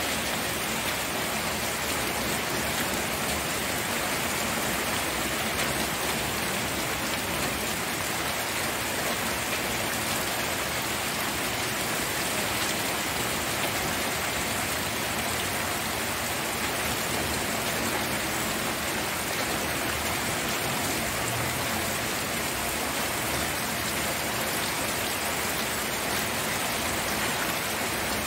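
Steady rainfall: an even hiss of rain falling on a surface, with no changes and no thunder.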